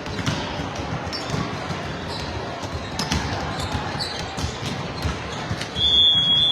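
Volleyballs being hit and bouncing in an echoing gym, with many short knocks and background voices. Near the end a loud, steady, high-pitched tone starts and holds, a signal such as a referee's whistle.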